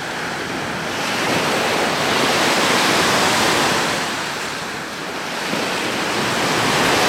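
Baltic Sea waves washing onto the shore, a steady rush that swells and eases in slow surges.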